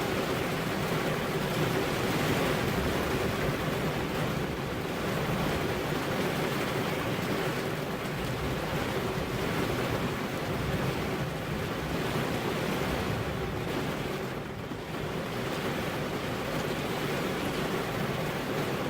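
Steady rainfall, an even hiss of falling rain with a brief dip in level about three-quarters of the way through.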